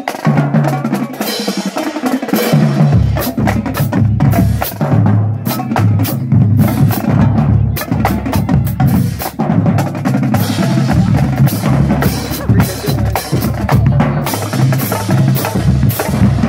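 Marching drumline playing a busy cadence: sharp snare and wood-rim hits over tuned bass drums that step between pitches, the bass drums coming in about three seconds in.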